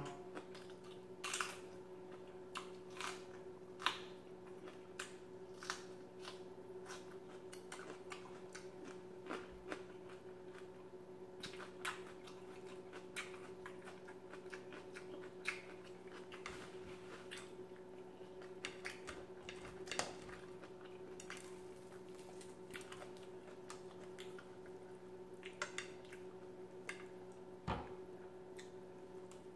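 A person chewing food, with many short wet mouth clicks and lip smacks scattered irregularly throughout. A faint steady hum runs underneath.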